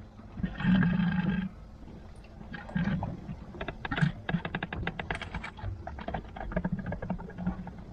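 Boat hydraulic steering being bled of air. A loud noisy burst about a second in, then a long run of rapid, irregular clicks and spits as the helm is worked and air escapes with the oil.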